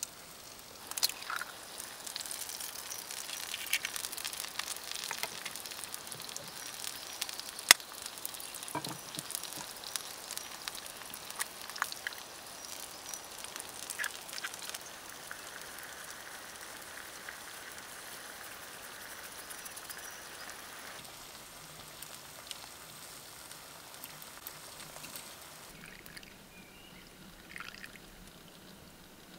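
Bacon and egg sizzling and crackling on a fire-heated flat stone, with one sharp crack about eight seconds in as an egg is broken. Later, coffee is poured from a metal moka pot into a wooden cup.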